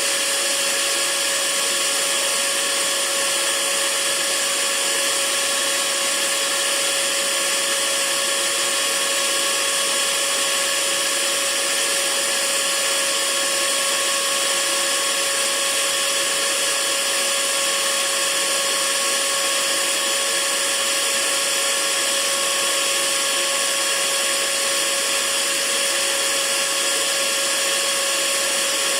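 Hair dryer running steadily: an even rush of air with a constant motor whine riding on it, unchanging throughout.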